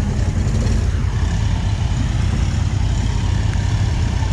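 Polaris ATV engine running steadily with a low, even rumble.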